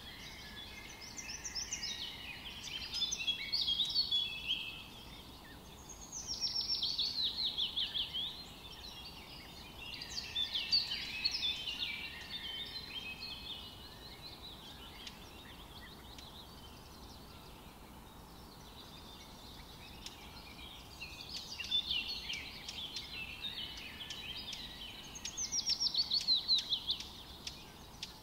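Small songbirds singing in bursts of quick chirps and trills, with a descending trill heard twice, about six seconds in and again near the end. Between the bursts a stretch of several seconds holds only faint background noise.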